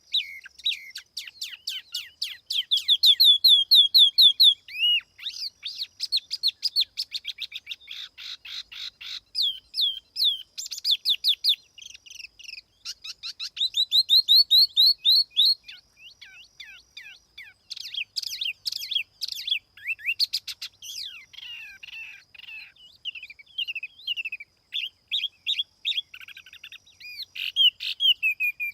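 Tiểu mi songbird singing continuously: rapid runs of clear whistled notes and fast trills in phrases broken by short pauses. This is the lure song (tiếng chim mồi) played to attract or train the bird.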